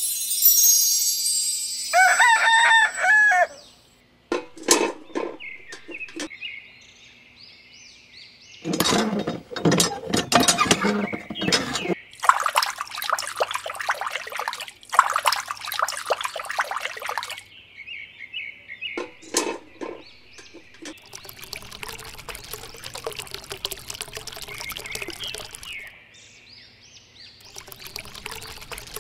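A rooster crows once, a couple of seconds in. Then water from a miniature hand pump pours and splashes in several long spells, running into a small tin bucket and later into a shallow bowl.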